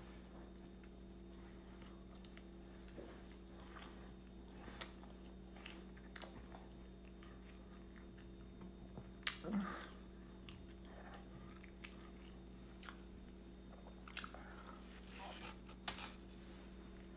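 Faint chewing and biting of a double steak grilled cheese burrito. A few short sharp clicks and crinkles are scattered through it, the loudest about nine seconds in, over a steady low hum.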